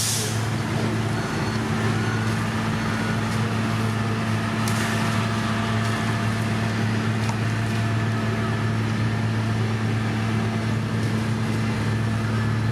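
Heavy diesel paving machinery running with a steady, even drone, with a short sharp hiss right at the start and another about halfway through.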